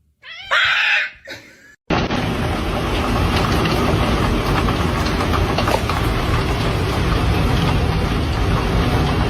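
A cat meows briefly. Then, after a sudden cut, a loud, steady rushing noise with no clear tone takes over for the rest of the time.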